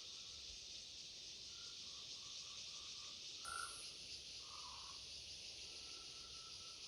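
Outdoor insect chorus: a steady high-pitched drone, with faint short animal calls coming and going over it and one slightly louder chirp about halfway through.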